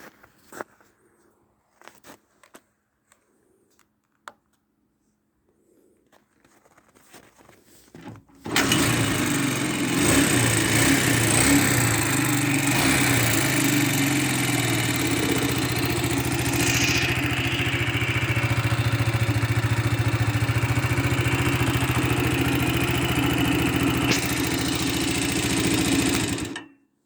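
Jialing motorcycle engine starting abruptly about eight seconds in, then running steadily for about eighteen seconds before it is switched off and cuts out. Faint clicks and rustles come before it starts.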